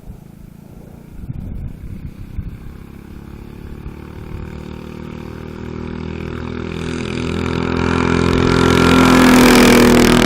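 Mini bike with a junior race engine approaching at speed, its engine note growing steadily louder and loudest near the end.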